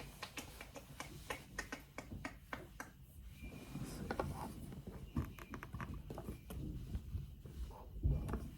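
Hookah parts being handled and fitted together: a run of small clicks, taps and scrapes, with a louder knock about eight seconds in.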